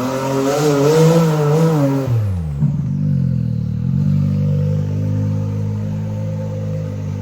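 Side-by-side UTV engine revved hard, its pitch wavering high for about two seconds with a rushing hiss, then falling back to a steady lower run.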